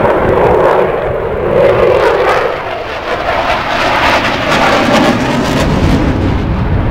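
Loud engine noise from a fixed-wing airplane: a steady rush with a strong lower tone that drops away about two and a half seconds in while the rush continues.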